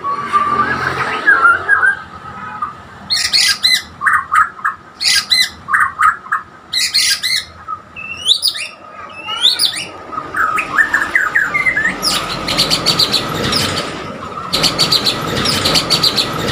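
Murai borneo (white-crowned shama) singing a rapid, varied song of sharp whistled notes and sweeping glides, turning into denser, harsher buzzy phrases from about twelve seconds in.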